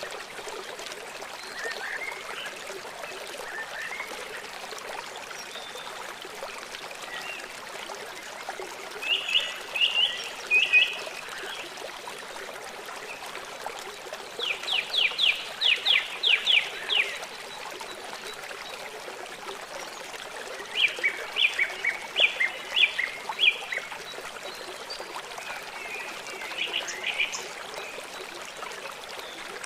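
Small birds calling in bursts of quick repeated chirps, four bursts several seconds apart, the loudest about halfway through. Behind them runs the steady rush of flowing water.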